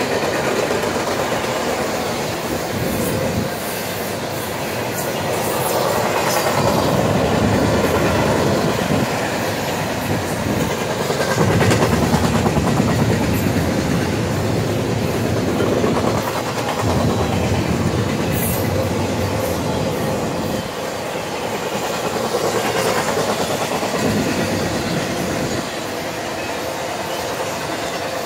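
Double-stack intermodal container cars rolling past: a steady rumble and clatter of steel wheels on rail that swells and eases in waves as the cars go by.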